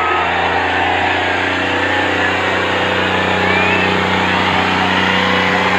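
Diesel tractor engine running at a steady, held speed, a continuous even drone.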